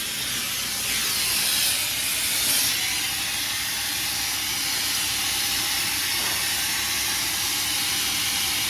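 Gas torch flame hissing steadily while heating metal for pouring a babbitt bearing, a little stronger in the first few seconds.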